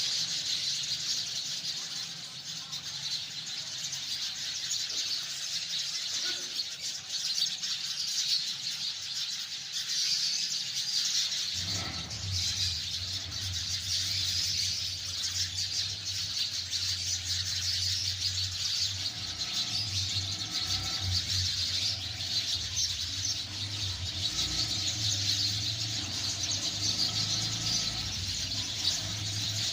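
A flock of sparrows chirping continuously in a dense, overlapping chatter. A low steady hum joins underneath a little under halfway through.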